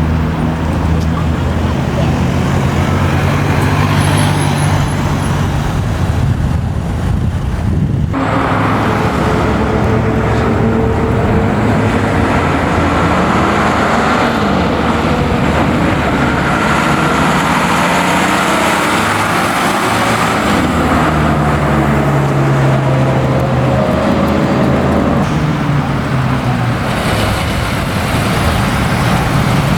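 Engines of classic and historic cars running, with several engine notes rising and falling as cars rev and pass. The sound changes abruptly about eight seconds in.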